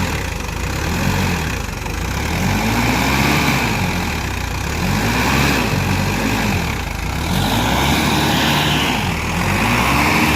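Tractor diesel engine running hard, its pitch climbing and dropping over and over as it is revved up and eased off repeatedly.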